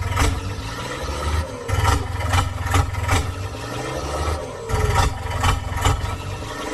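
Miniature tractor running, with an engine rumble that swells and drops in stretches and many sharp knocks and clatters.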